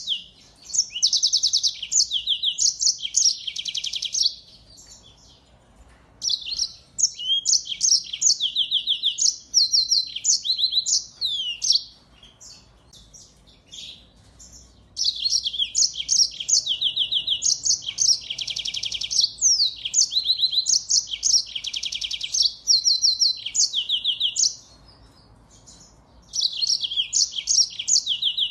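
A finch-family songbird singing long, fast, high-pitched twittering phrases of trills and buzzy notes, with short pauses of about two seconds between phrases.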